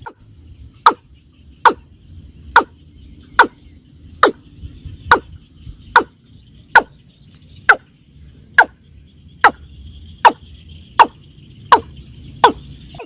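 Watercock calling: a steady series of short, sharp notes, each falling steeply in pitch, repeated a little faster than once a second.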